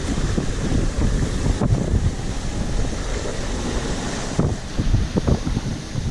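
Wind buffeting the microphone, with the rush of the sea against a sailboat under way close-hauled on the breeze.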